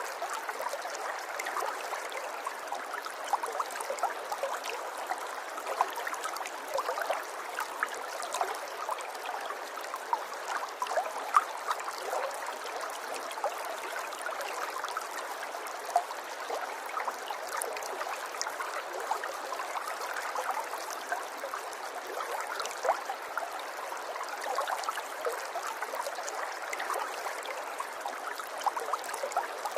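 River water running over stones, a steady gurgling and splashing with small bright trickles throughout.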